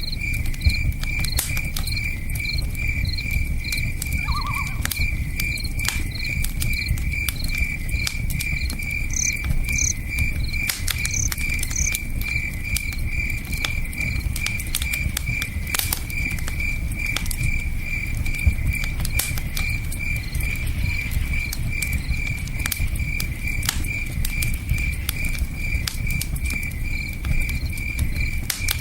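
Campfire crackling with scattered sharp pops, over the low steady rush of a river, while a cricket chirps in an even, regular pulse.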